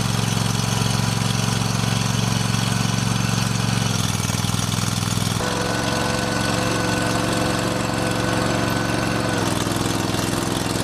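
Heavy diesel engine of earthmoving machinery running steadily, its note shifting a few times as the load changes.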